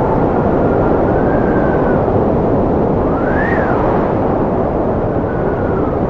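Strong wind blowing steadily, with a whistling howl that rises and falls in pitch several times.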